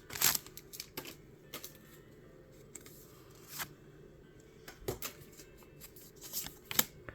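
Pokémon trading cards being handled and flipped through by hand: a brief rustle at the start, then scattered soft card clicks and slides.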